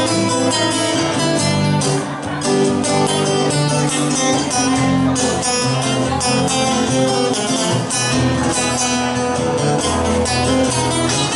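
Two guitars playing a Spanish-style instrumental: a rhythm guitar strumming chords under a lead guitar picking the melody.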